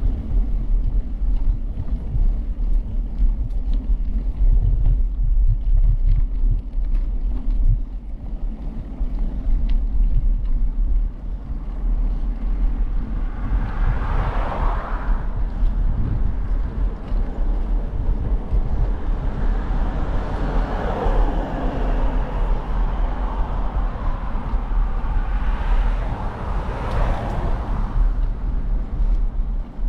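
Steady low rumble of wind and rolling on the microphone of a camera carried on a moving bicycle, with three louder swells that rise and fade, about halfway through, a little later, and near the end.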